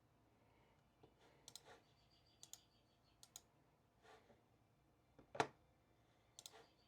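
Sparse light clicks and taps at a desk, irregularly spaced, with one louder knock about five and a half seconds in.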